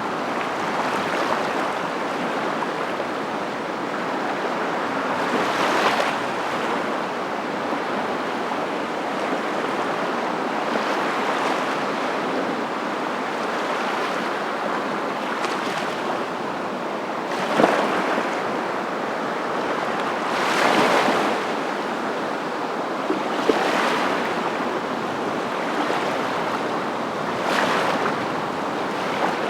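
Steady rushing water noise that swells louder every few seconds, with the sharpest swell a little before the middle.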